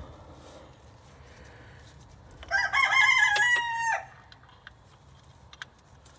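A rooster crowing once, one call about a second and a half long that wavers, holds its pitch and drops off at the end, starting about two and a half seconds in. A few faint clicks follow.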